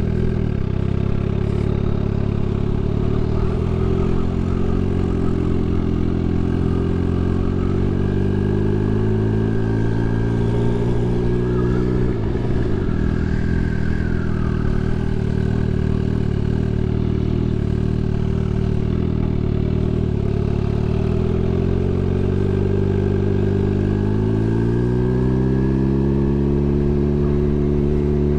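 Turbocharged Suzuki Hayabusa's inline-four engine running under way at low speed. It revs up about 8 seconds in and drops sharply at a gear change around 12 seconds, runs steadily, then revs up again near the end.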